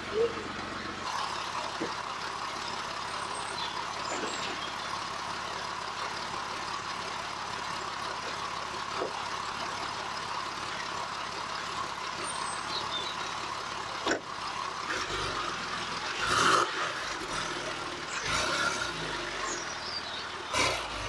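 Porsche 996 flat-six engine running on a test start after new coil packs and spark plugs were fitted to one bank. The sound changes abruptly about a second in, and there are stronger low surges with a few louder bursts near the end.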